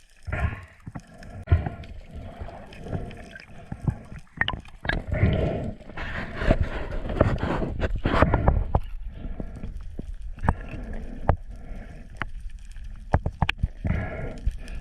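Water sloshing and splashing, with scattered knocks and bumps throughout.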